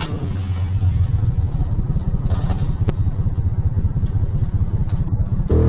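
Side-by-side UTV engine running at low revs with a fast, choppy pulse, a single click about three seconds in, then the engine revs up sharply just before the end.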